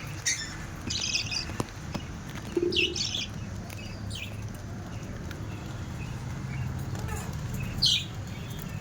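Budgerigars chirping in short, scattered bursts of high-pitched twitter, over a steady low hum.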